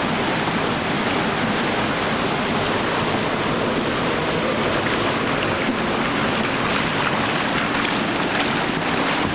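Whitewater rapid rushing, a steady loud roar of churning river water.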